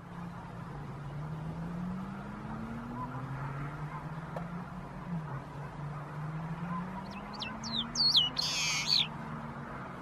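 Bird calling: a run of short, high notes sliding in pitch about seven seconds in, then a louder, harsher burst about a second later. Under it a low droning hum slowly rises and falls in pitch.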